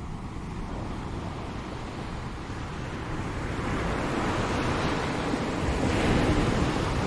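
Ocean surf: the wash swells and a wave breaks about six seconds in, the loudest moment, then begins to recede.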